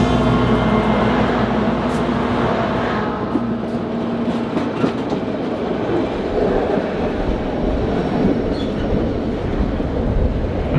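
A diesel locomotive and passenger cars running past on the adjacent track, heard from the moving train. Steel wheels rumble and clatter on the rails throughout, with a steady engine hum in the first few seconds as the locomotive goes by.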